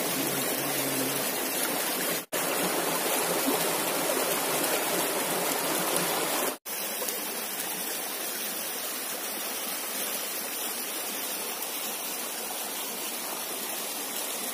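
Rushing stream water, a steady hiss. It cuts out to silence for an instant twice, about two seconds and six and a half seconds in.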